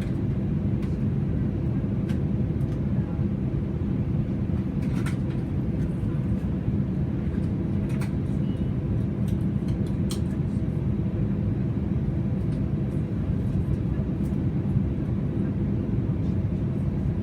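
Steady low drone of an Airbus A320's engines heard inside the passenger cabin, holding an even level, with a few faint clicks and rattles from the cabin fittings.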